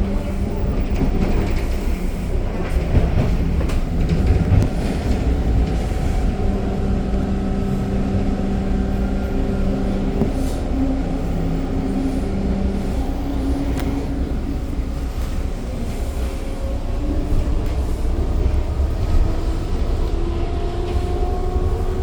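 Subway train running, heard from inside the car: a steady low rumble of wheels on rail with a motor hum, and a whine that rises in pitch near the end.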